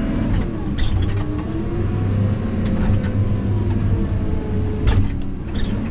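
Diesel engine of a logging machine running steadily under load, with a few short knocks.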